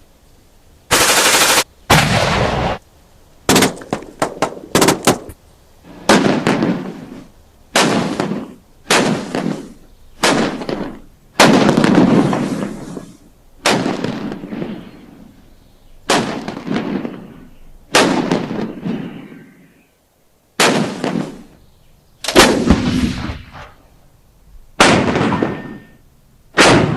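Gunshot sound effects: a string of single shots, each followed by an echoing tail lasting a second or two. A quick burst of several rapid shots comes a few seconds in.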